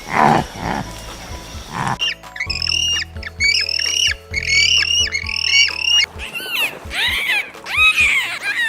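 A series of short, high-pitched animal calls, each rising and then falling in pitch, repeated many times over background music.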